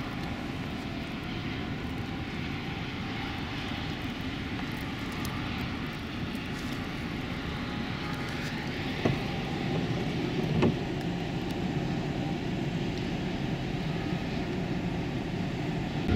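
Steady low rumble of a vehicle driving, with two short sharp knocks about halfway through.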